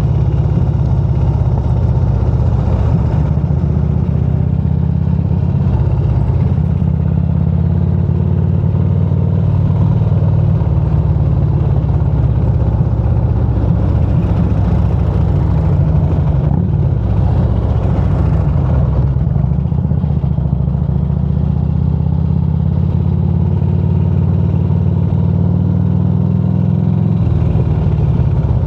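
Motorcycle engine running steadily while riding, its note shifting a few times as the throttle or gear changes.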